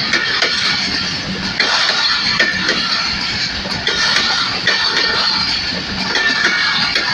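A passenger train's coaches rolling past close by: a steady, dense noise of wheels on rails, with scattered sharp clicks.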